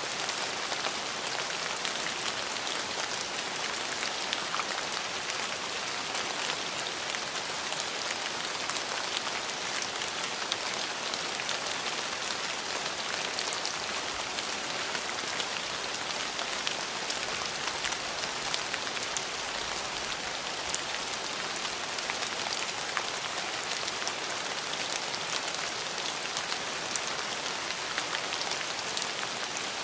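Steady rain falling on surfaces: an even hiss with many separate drop ticks scattered through it.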